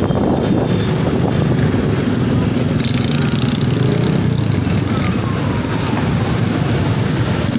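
Motorcycle riding in city traffic: engine running with steady road and wind rumble.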